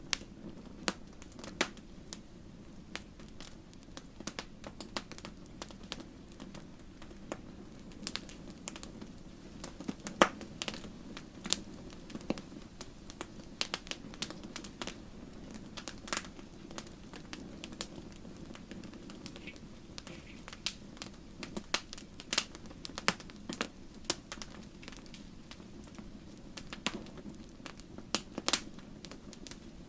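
Campfire burning: irregular sharp crackles and pops from the burning wood, a few much louder snaps, over a steady low rumble of the flames.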